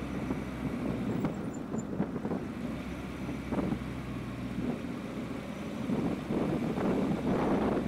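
BMW E30 320is's S14 four-cylinder engine, with Schrick cams, carbon airbox and Evo2 muffler, running at low speed through a tight bend, getting louder near the end as it pulls away.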